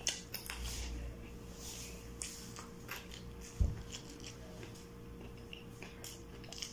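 A person chewing kwek-kwek (battered, deep-fried quail eggs) with the mouth closed, close to the microphone: scattered soft, wet mouth clicks and smacks. A dull thump comes about three and a half seconds in, over a faint steady hum.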